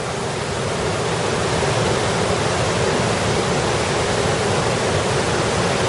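Steady rushing of a mountain creek, an even wash of water noise.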